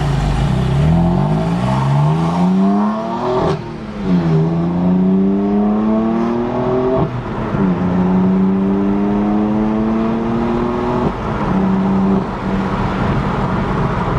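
BMW M4's twin-turbo straight-six with aftermarket downpipes accelerating hard through the gears: the engine note climbs in pitch, drops at each of three quick upshifts and climbs again, then holds steady briefly near the end. Heard from inside the cabin.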